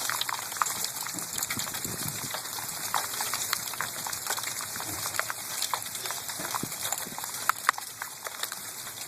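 Hail falling steadily, a dense patter of many small sharp impacts over a constant hiss, with two louder hits about three-quarters of the way through.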